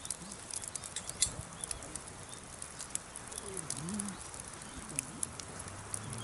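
Firewood campfire burning fiercely, crackling with many sharp, irregular pops.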